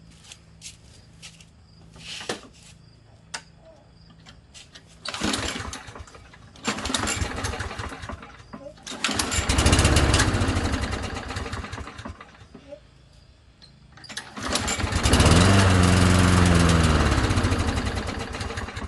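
Walk-behind lawn mower's four-stroke engine being pull-started: it catches for a second or two and dies more than once, then runs for a few seconds with its speed rising and falling before fading out. The owner puts the uneven running down to crud in the carburetor bowl from stale gas.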